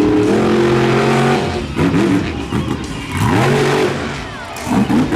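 Monster truck engine held at high revs, then falling off and revving up again in two sharp rises about two and three seconds in. Quick stuttering throttle stabs follow near the end.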